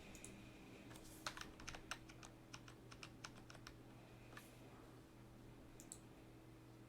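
Faint typing on a computer keyboard: a quick run of keystrokes, then a couple of single clicks later, over a low steady electrical hum.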